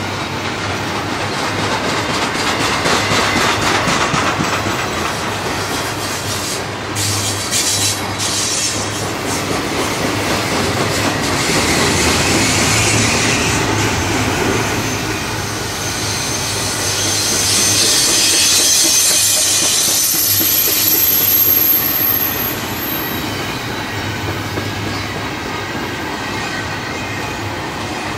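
CSX double-stack intermodal freight train rolling past at close range: the steady rumble and clatter of container well cars over the rails. A thin, high wheel squeal joins in about twenty seconds in and lasts a few seconds.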